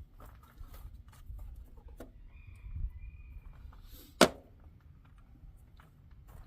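Hand tools being handled during engine-bay work: scattered light clicks and taps, with one sharp loud metallic knock about four seconds in.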